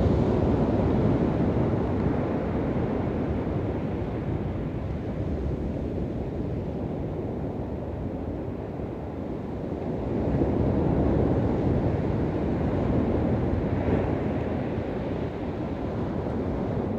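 Waves washing onto a shore, a steady rushing noise that swells louder near the start and again about ten seconds in, with wind buffeting the microphone.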